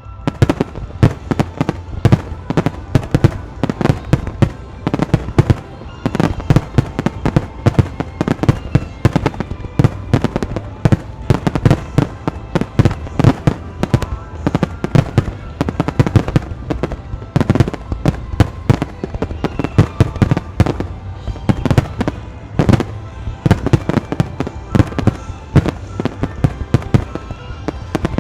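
A rapid barrage of aerial fireworks shells bursting, several sharp bangs and crackles a second without a break.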